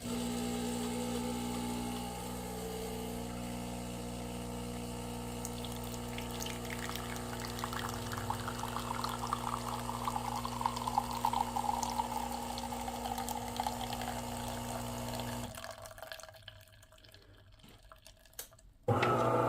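De'Longhi Magnifica XS bean-to-cup espresso machine brewing: its pump runs with a steady buzzing hum while espresso trickles into the cup, the pouring sound falling in pitch as it goes. The pump stops about three-quarters of the way through, and another machine hum starts abruptly near the end.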